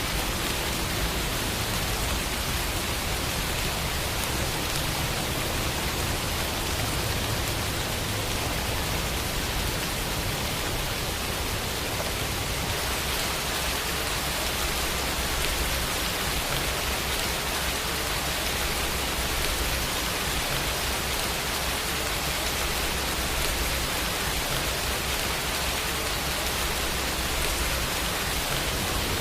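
Steady rain falling, an even hiss without breaks or distinct drops.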